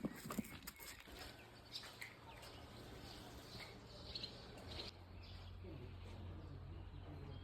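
Faint outdoor ambience: scattered short chirps and clicks over a low steady hum that grows slightly louder about five seconds in.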